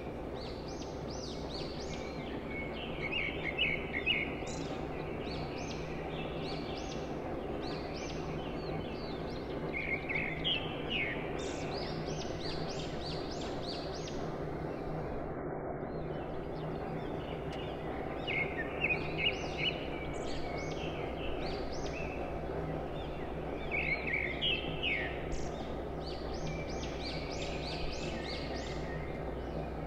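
Birds chirping in repeated bouts of short, high calls over a steady low background hiss.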